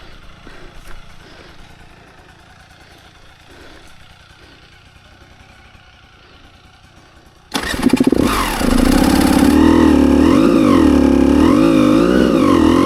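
A dirt bike engine starts suddenly about two-thirds of the way in, then runs with its revs rising and falling.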